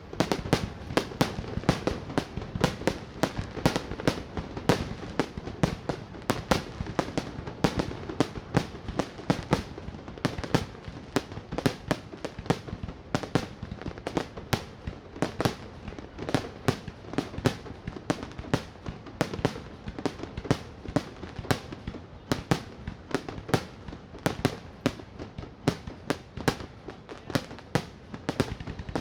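Aerial fireworks going off in a continuous barrage, with a few sharp bangs every second and no pause.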